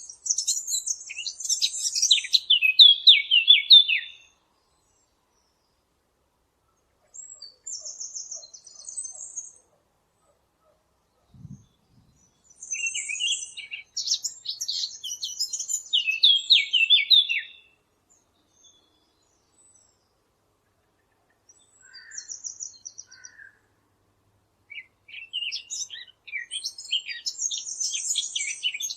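A Sylvia warbler (the 'fig bird') singing in repeated phrases a few seconds long, each a fast high twitter that drops into louder, lower warbled notes, with quieter fragments between. A faint low thump comes near the middle.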